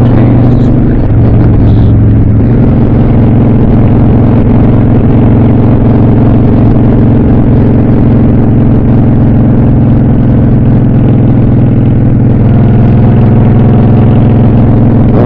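Honda Shadow VLX 600 motorcycle's V-twin engine running steadily and loudly. Its note drops slightly about a second in and again a little later, then holds.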